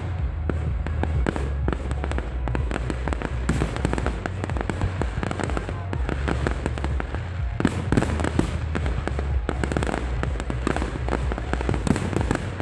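Fireworks display: a dense, continuous barrage of aerial shell bursts, bangs and crackling, with no pause, over a steady low rumble.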